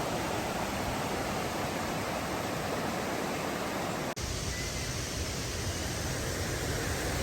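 Steady rush of river water flowing over rocks. About four seconds in it cuts out for an instant and resumes with a slightly different tone.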